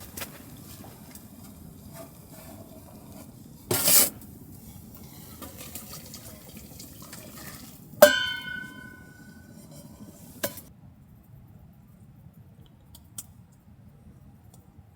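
Metal camp cookware being handled: a short loud scrape or rattle about four seconds in, then a sharp clink about eight seconds in that rings with several bright tones as it fades, and a smaller knock a couple of seconds later, over a low steady background rumble.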